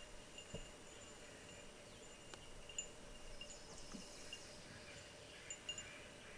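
Faint outdoor ambience: thin high chirping and a steady high tone from insects or small birds, with a few soft clicks.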